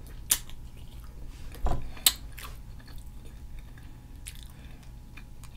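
Close-up mouth sounds of someone eating a buttery seafood boil: chewing with a few sharp wet clicks and smacks, and one low thump about one and a half seconds in.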